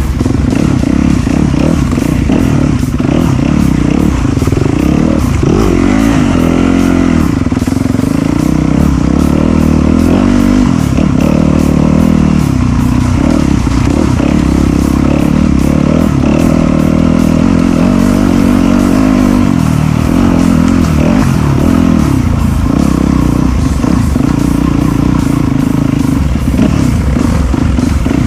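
Enduro motorcycle engine running while being ridden off-road, its pitch rising and falling repeatedly with the throttle, over a steady low rumble.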